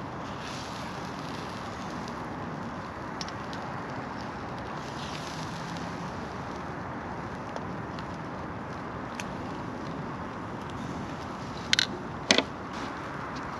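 Steady rushing outdoor background noise with a few faint ticks, broken near the end by two sharp cracks in quick succession.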